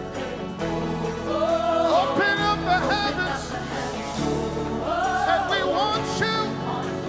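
Gospel music: a singer holding and sliding through long, wavering notes over sustained instrumental accompaniment.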